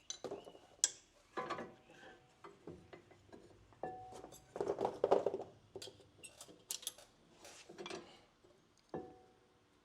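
Irregular metallic taps and clinks of a screwdriver used as a punch against brake caliper pad pins and hardware, some strikes leaving a short metallic ring.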